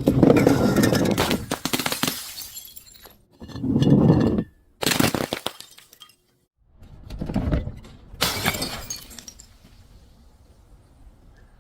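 Glass bottles and jars shattering: about five separate breaks, each a sudden crash followed by a scatter of tinkling shards.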